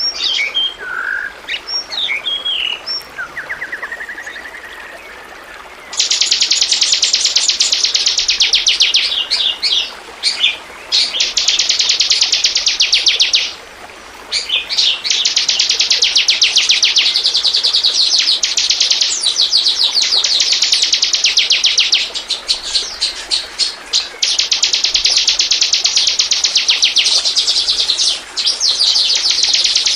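Bar-winged prinia (ciblek) calling: a few scattered high chirps, then from about six seconds in, long, very fast, high-pitched trills lasting several seconds each, broken by short pauses.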